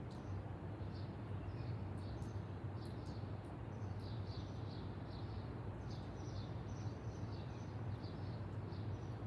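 Small birds chirping, short high chirps repeating irregularly over a steady low hum.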